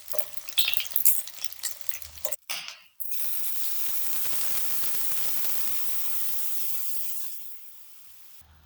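Food frying in hot oil: sharp crackles and pops for the first couple of seconds, then after a brief break a steady sizzle that fades away near the end.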